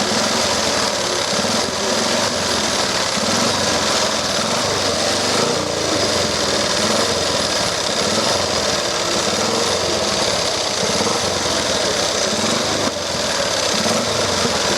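Vintage motorcycle engine running loudly at close range with a rough, fast, hammering beat, dipping briefly near the end.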